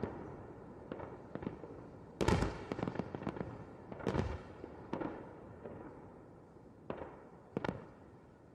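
Aerial fireworks shells bursting in an irregular series of bangs, each trailing off in a rolling echo. The loudest comes about two seconds in, with further bangs around four, five and seven seconds.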